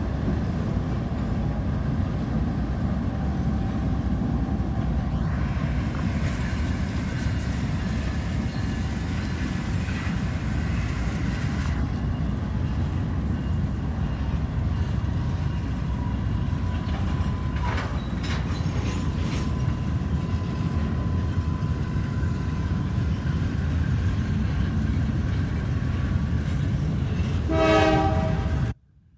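Train rumbling steadily along the track. Near the end its horn sounds briefly, then the sound cuts off suddenly.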